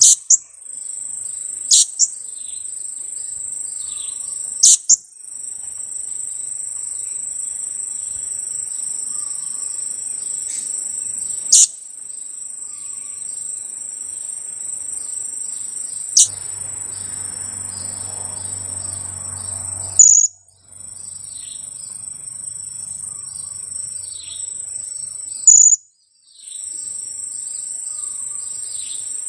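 Steady high-pitched insect drone, with short, sharp, very loud high calls from a young blue-crowned hanging parrot (serindit) every few seconds and faint little falling chirps between them.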